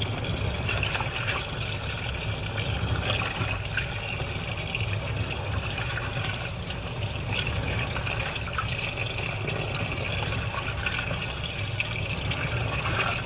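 Water running and splashing inside a washing machine tub, steady throughout, with a low hum beneath.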